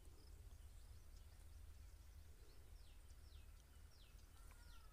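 Near silence with a faint low background rumble. From about halfway through, a distant bird repeats a short falling chirp at an even pace, a little under a second apart.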